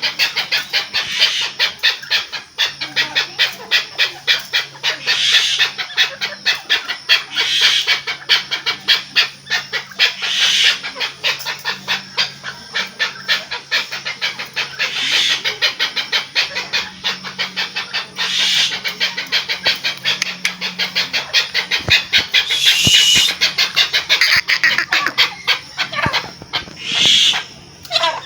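Chukar partridge calling: a fast, unbroken run of short repeated notes, many each second, rising to louder stretches every two to three seconds.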